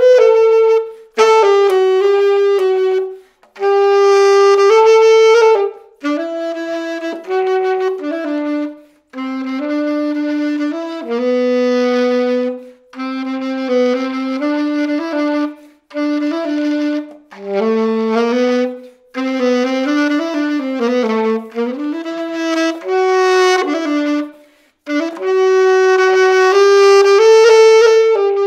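Solo Selmer Mark VI alto saxophone played unaccompanied, in phrases of held and moving notes broken by short breaths between them, testing the instrument after an overhaul.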